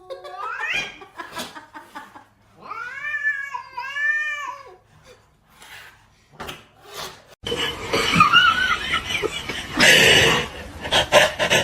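Domestic cat meowing in long, drawn-out, arching yowls, two in a row a few seconds in. From about seven and a half seconds a sudden, louder, noisy stretch takes over, with more cat cries in it.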